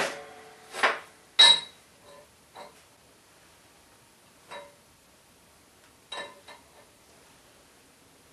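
Steel pieces of a blacksmith's guillotine tool knocking and clinking as they are handled and set down: two loud knocks in the first second and a half, the second one ringing, then a few fainter clinks spread out.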